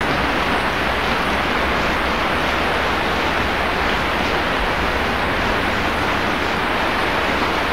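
Heavy rain pouring down steadily, a dense, even rush of drops that neither swells nor fades.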